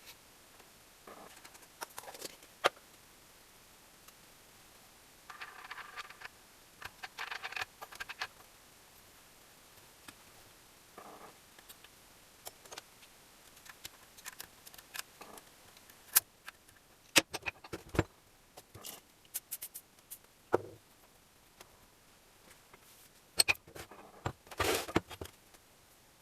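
Hand tools and small metal engine parts being handled during engine assembly: scattered clicks and taps, with short scraping, rattling stretches twice.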